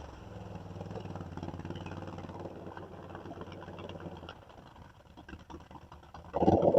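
Four-wheeler (ATV) engine idling steadily. It drops back a little past the middle, and a louder engine sound comes in suddenly near the end.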